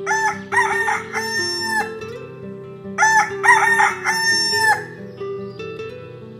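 A rooster crowing twice, the first crow at the start and the second about three seconds in, each a few short notes ending in a long held one, over background music.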